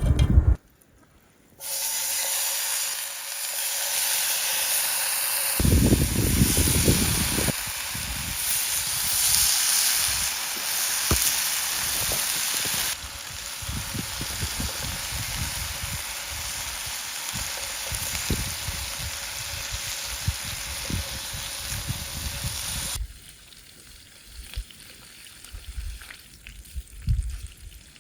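Food sizzling in a frying pan over a campfire: a steady, loud hiss that starts suddenly about two seconds in and cuts off abruptly near the end, leaving quieter scattered crackles and clicks.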